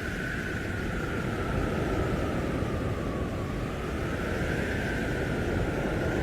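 Blizzard wind howling, a whistling tone that slowly sinks and rises again over a steady rush with a low rumble.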